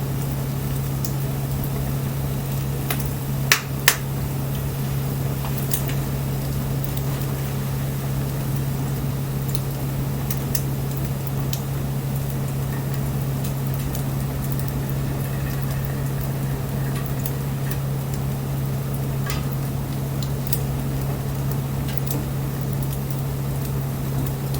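Wood bonfire crackling, with scattered sharp pops and two loud snaps about three and a half seconds in, over a steady low hum.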